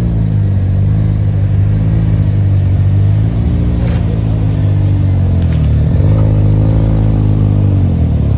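Car engine running loudly, its pitch rising and falling several times as it is revved or driven.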